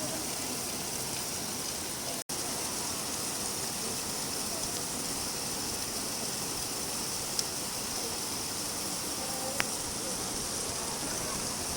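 Steady rain falling with an even hiss, broken by a split-second dropout about two seconds in, with a couple of faint ticks later on.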